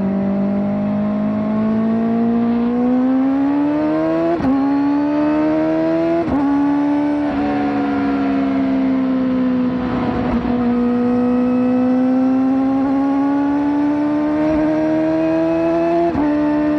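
Kawasaki ZX-4RR's 399 cc inline-four, through a slip-on exhaust, pulling hard through the gears. Its revs climb and drop sharply with an upshift about four seconds in and another about two seconds later. The revs then sag as the throttle eases around the middle and climb again steadily before another shift near the end.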